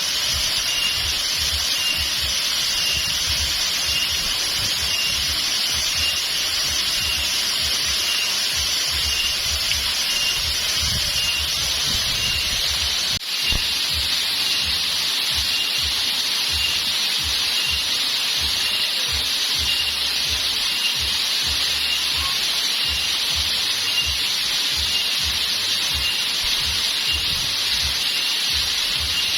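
Waterfall water rushing steadily. Over it a high chirp repeats evenly, a little less than twice a second.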